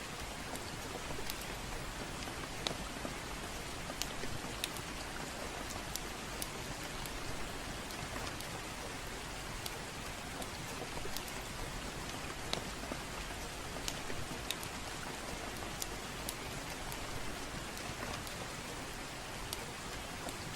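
Steady gentle rain, with scattered sharp crackles and pops from a wood fire.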